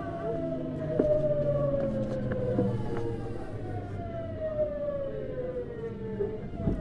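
Hitachi GTO-VVVF inverter and traction motors of a Tokyu 9000 series electric train whining, the tone falling steadily in pitch as the train slows. Stepped hums sound underneath, and there is a single knock about a second in.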